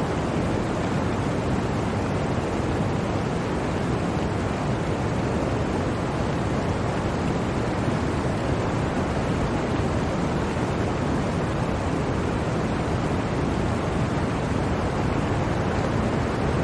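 Blizzard wind: a dense, even rushing noise, steady, with no gusts or breaks.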